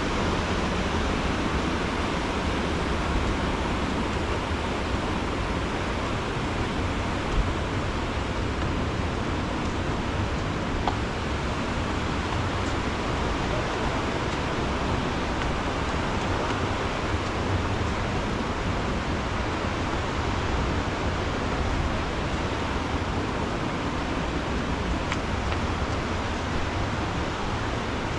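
Steady rushing of water, an even noise with no breaks and only a couple of faint clicks.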